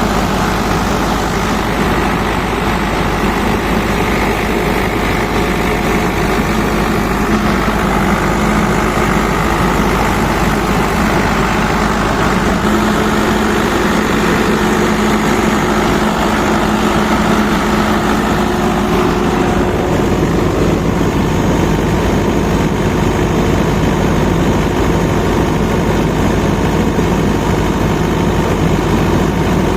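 Kirloskar Koel 4R four-cylinder diesel engine running steadily at idle.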